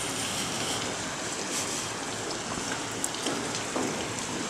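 Steady rain falling during a night thunderstorm: an even hiss with a few sharp drip ticks.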